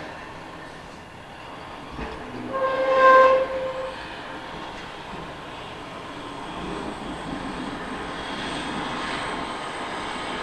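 Snow-plow dump truck working: a steady run of engine and plowing noise that grows louder in the second half, broken about three seconds in by a single horn blast lasting about a second.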